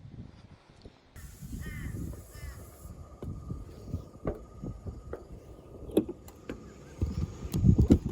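Outdoor ambience: a bird calls twice, a faint steady hum runs underneath, and scattered knocks give way to heavy low thumps near the end, like handling or wind buffeting on the microphone.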